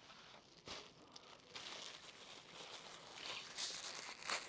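Faint crinkling and rustling of takeout food packaging being handled, with a light click about a second in and another near the end.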